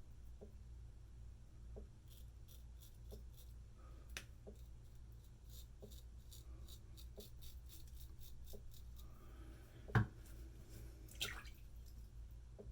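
Straight razor with a Feather Pro Guard blade scraping through lathered stubble in a run of short, quick strokes, faint and crisp, over a low steady hum. A single louder knock comes about ten seconds in.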